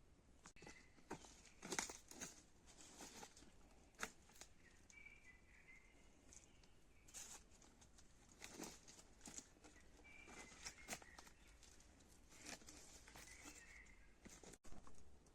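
Faint scattered rustles and light clicks of something being handled, with a few faint short chirps in between.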